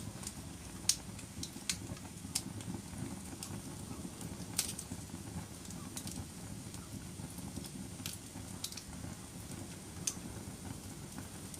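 Wood fire burning in a fireplace: a steady low rush of flames with irregular sharp crackles and pops from the burning logs, roughly one every second or two.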